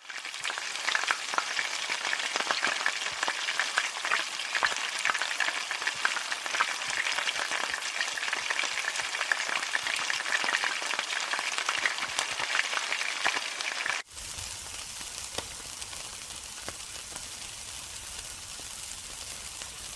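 Food frying in hot oil in a wok: a dense crackling sizzle full of small pops. About fourteen seconds in it cuts suddenly to a quieter, steadier hiss with a low rumble underneath.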